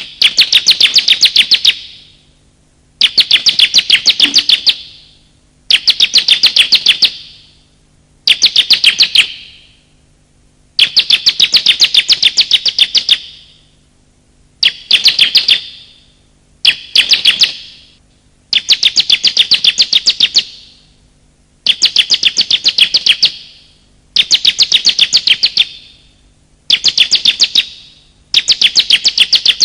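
Bar-winged prinia (ciblek) calling in a lure recording: loud bursts of rapid, high chattering notes, each lasting one to two seconds and repeated about every two to three seconds.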